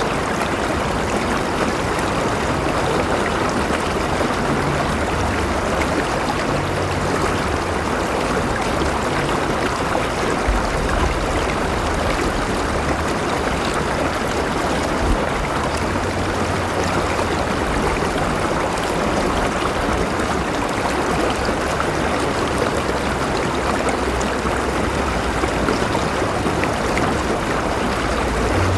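A flowing river: steady, continuous rush and babble of water over rocks, with a low rumble underneath.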